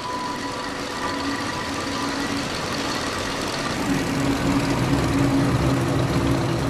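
A small boat's motor running steadily, a low hum that grows a little stronger about four seconds in.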